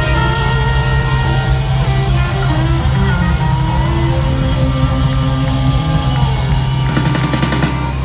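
Live blues-rock band playing the closing instrumental bars of a song: held electric guitar notes over steady bass and drums, with cymbals swelling near the end.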